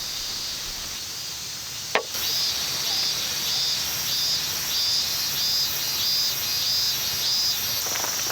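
Insects chirping outdoors: a steady high buzz with a pulsing chirp about twice a second that starts after a sharp click about two seconds in.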